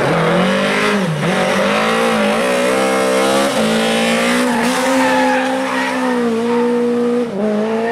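Lada VFTS rally car's four-cylinder engine revving hard through a cone slalom. The revs drop near the start and again about a second in, then climb and step repeatedly as it lifts and accelerates between the cones.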